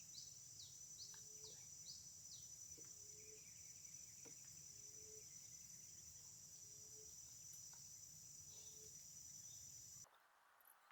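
Faint outdoor insect chorus: a steady high-pitched drone, with a run of quick falling chirps in the first couple of seconds and short low calls repeating about once a second. It all drops away abruptly near the end.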